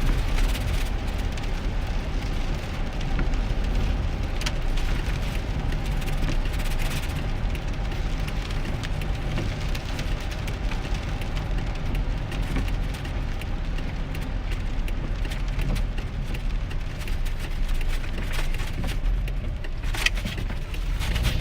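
2001 GMC Sierra pickup driving in the rain, heard inside the cab: a steady low engine and road drone with the hiss of wet road and rain.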